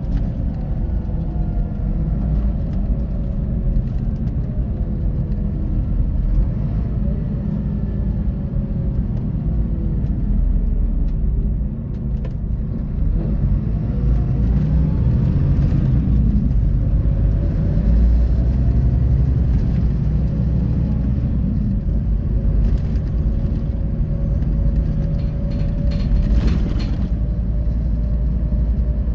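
Scania K450 coach's 13-litre six-cylinder diesel engine and drivetrain running under way, with a deep rumble and a droning note that slowly falls and rises with engine speed, with a brief dip about twelve seconds in.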